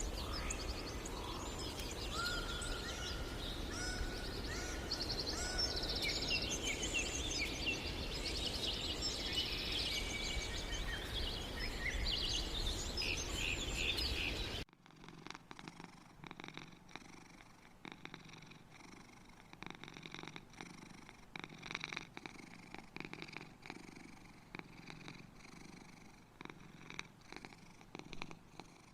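High chirps and trills over a noisy background, then a sudden cut about halfway through to a domestic cat purring softly in regular pulses.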